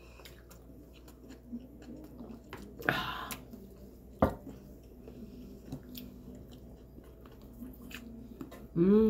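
People chewing and eating with their mouths close to the microphone, with small mouth and food clicks throughout, a brief rustle about three seconds in and a sharp click a second later. Right at the end there is a loud, short cry that rises and then falls in pitch.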